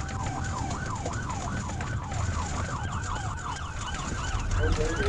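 Police car siren in rapid yelp mode, its pitch sweeping up and down about three times a second, over engine and road rumble.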